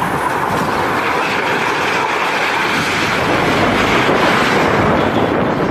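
Strong storm wind blowing as a steady, loud rush, with wind buffeting the microphone.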